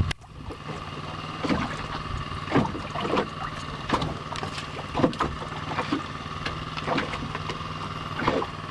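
A small fishing boat's engine running steadily under way, with irregular slaps and knocks of waves against the hull in rough water.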